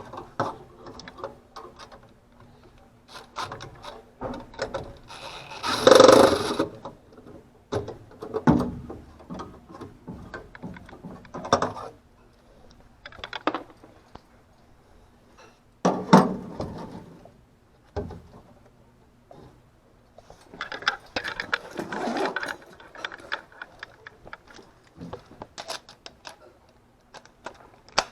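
Intermittent clicks, rattles and knocks of objects being handled, with louder clattering bursts about six and sixteen seconds in, over a faint steady hum.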